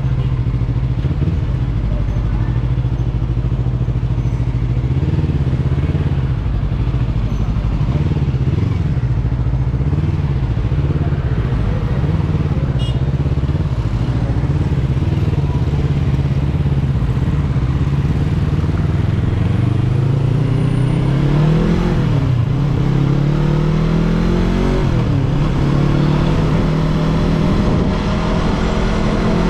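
Yamaha R3 motorcycle's parallel-twin engine running at a steady, even speed, then accelerating in the last third: the pitch rises, drops back at a gear change, and rises again twice.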